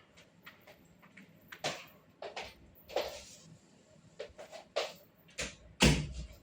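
A string of light knocks and clatters of things being handled around the home, irregularly spaced, with one heavier thump near the end.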